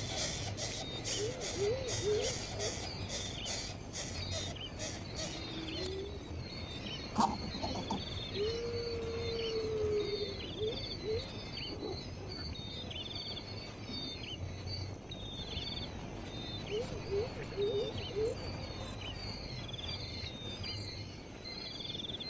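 Birds calling with short, repeated high chirps and some lower whistled notes, over insects buzzing in fast pulses for the first several seconds.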